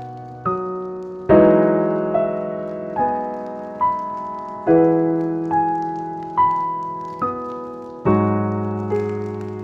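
Slow, gentle piano music: single notes struck a little under a second apart and left to ring out, with a deeper, louder chord every three to four seconds.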